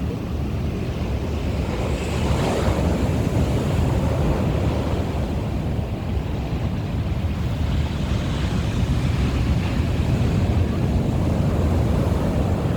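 Sea waves breaking and washing up a beach, one surge about two seconds in and another about eight seconds in, with wind rumbling on the microphone throughout.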